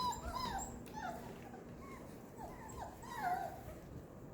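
Portuguese Water Dog puppies, about five weeks old, whimpering and yipping at play: short high calls that rise and fall, several a second with brief pauses.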